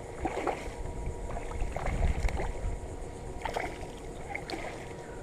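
Handling noise aboard a kayak: scattered small knocks and clicks over a low rumble, with some water sound, which swells for a moment about two seconds in.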